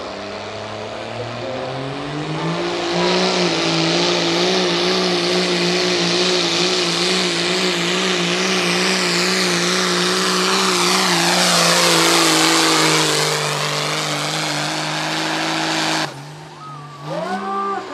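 Street-class 4x4 pickup truck engine at full throttle pulling a weight sled. The engine note climbs over the first couple of seconds, then holds high and steady under a loud rushing hiss, and cuts off sharply near the end.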